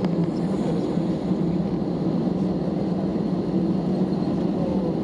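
Steady cabin rumble inside an Airbus A320neo on the ground after landing: the engines run at low power under the hum of the cabin air system. It holds an even level with no change in pitch.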